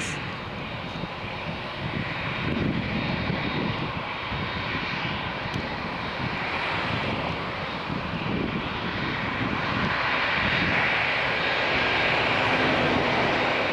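Boeing 787-8's GE GEnx jet engines at taxi power as the airliner rolls past close by: a steady jet engine noise that grows louder over the last few seconds.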